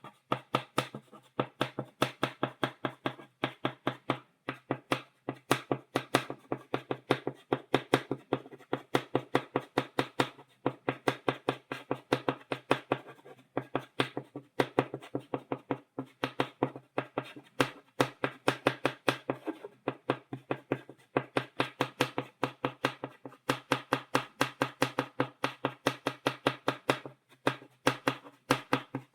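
Chalk tapping against a blackboard, dotting it in quick runs of sharp taps, several a second, with brief pauses between runs.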